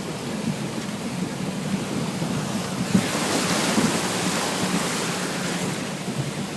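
A truck driving through a stream: a steady low engine hum under rushing, splashing water that swells from about three seconds in and eases near the end.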